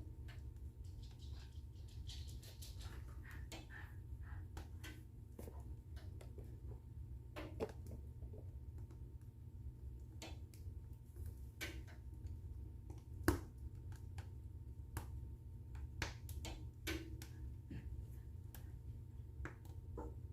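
Wood fire burning in a fireplace, crackling with irregular pops and snaps, the sharpest one about thirteen seconds in, over a steady low rumble.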